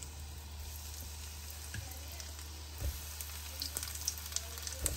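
Breaded chicken cutlets shallow-frying in hot oil in a nonstick pan: a steady faint sizzle, with small crackles picking up toward the end. A few soft thumps come as more cutlets are laid into the pan.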